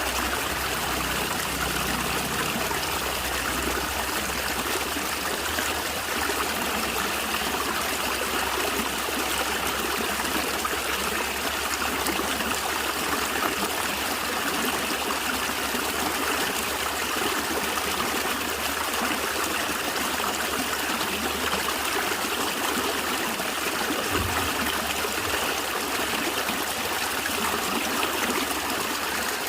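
Steady rushing and trickling of a small natural stream, with water gurgling over stones.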